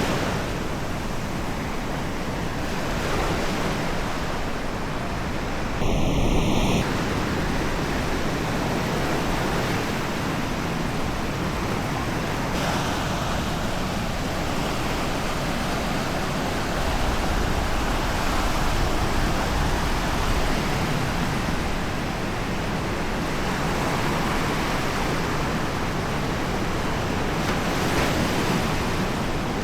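Sea waves washing onto a sandy beach, a steady surf wash with some wind. About six seconds in, a brief high tone sounds for under a second.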